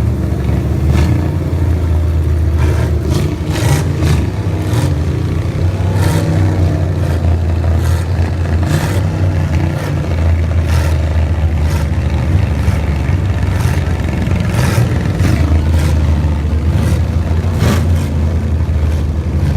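Truck engine running loud and steady, with irregular sharp clacks scattered through it.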